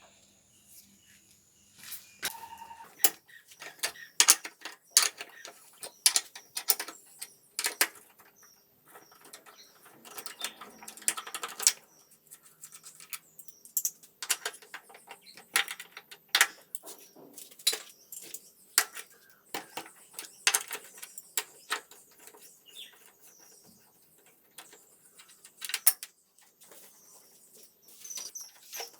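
Irregular sharp clicks and taps with short scraping stretches, like hand tools and small metal parts being handled on a workbench during motorbike restoration work.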